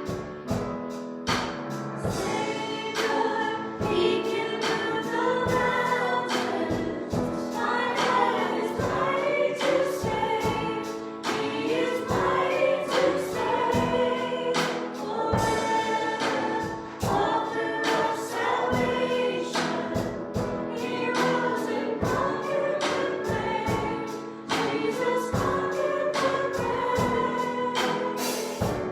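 A worship band and singers performing a gospel-style praise song, voices over a steady drum beat.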